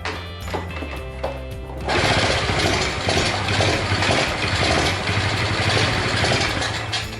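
Honda Chaly's small single-cylinder engine being started on a test after an ignition coil swap, a dense mechanical clatter that gets louder about two seconds in. Background music plays throughout.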